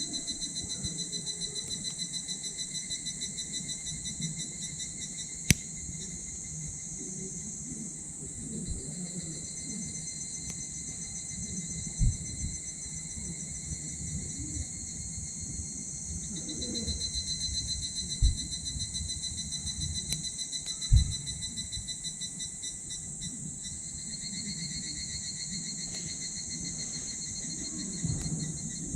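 Wood fire crackling in a small titanium wood-burning stove, with several sharp pops, over a steady chorus of insects chirping.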